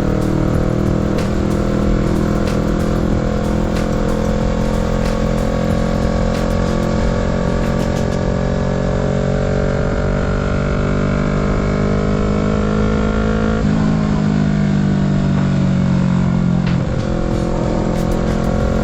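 Kawasaki Z650's parallel-twin engine under way, its note climbing slowly as the bike accelerates. About 14 s in the note changes abruptly, then falls for a few seconds as the bike slows, and then runs steady.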